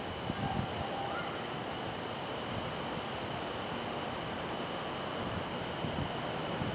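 Passing diesel-hauled train: a steady, even rumble with no sudden events.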